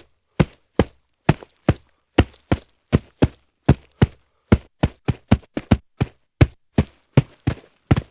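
A quick series of sharp knocks, about two to three a second, unevenly spaced and often falling in close pairs, each one short and of much the same loudness.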